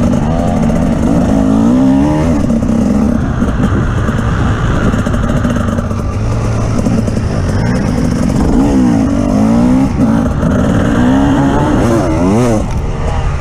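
Off-road vehicle's engine driving hard, its revs rising and falling again and again, with a quick sharp rev near the end.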